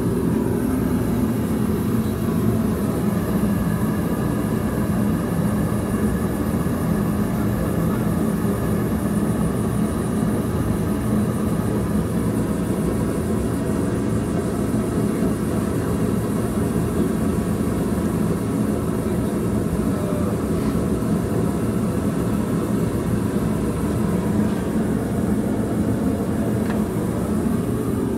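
A steady, low machine rumble with a constant hum that does not change.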